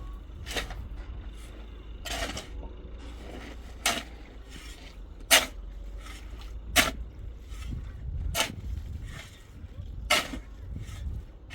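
Construction work: a short scraping or striking stroke of a hand tool about every second and a half, over a low steady rumble.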